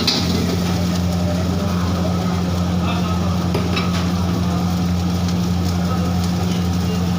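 Steady low hum, like a running motor or burner, with a few faint light clicks.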